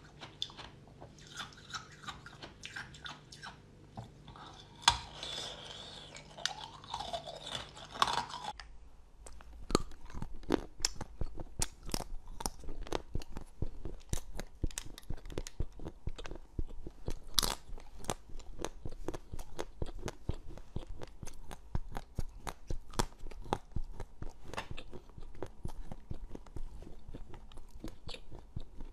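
Close-miked eating sounds: a frozen jelly ball on a stick being bitten and eaten. After a cut about eight seconds in, a rapid run of sharp crunches follows as frozen candies are chewed.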